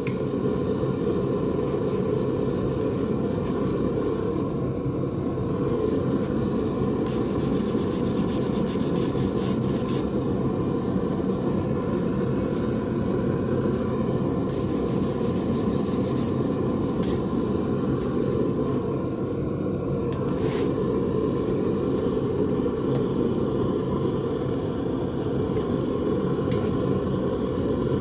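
Propane forge burner running steadily, a constant low rush of burning gas while the metal heats. A few faint clicks sound over it.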